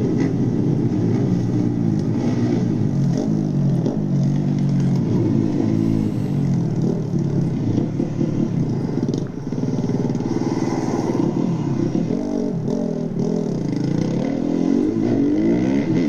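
Motorcycle engine revving up and down in repeated waves as it is ridden hard, the pitch rising and falling, with a brief drop in level about nine seconds in.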